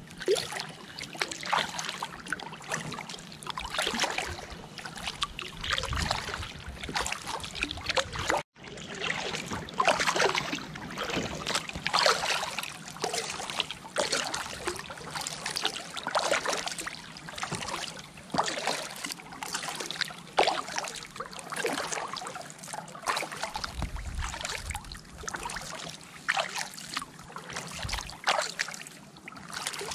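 Kayak paddle strokes: the blades dip and swish through the water with trickling drips, about one stroke every second or two. There is a brief dropout about eight seconds in.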